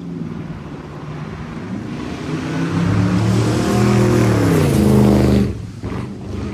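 Rebuilt car engine accelerating hard on a test drive for misfires, its pitch and loudness rising for a few seconds and then cutting off suddenly about five and a half seconds in as the throttle is let off.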